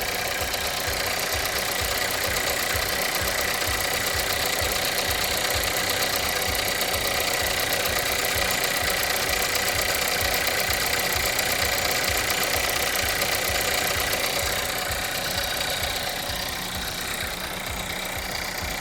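Volkswagen Jetta's 1.4 TSI turbocharged four-cylinder idling with its serpentine belt thrown off by a rat: a steady low, uneven pulsing under a steady high tone, easing slightly near the end.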